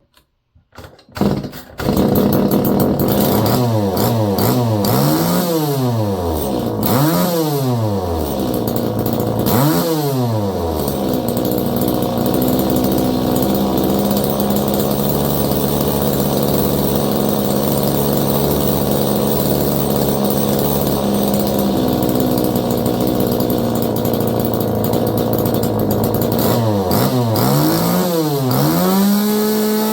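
STIHL 019 top-handle chainsaw's two-stroke engine catching about two seconds in and being revved up and down several times. It then runs at a steady speed through the middle and is revved again near the end. The saw, which would not run, is running again after its fuel system repair.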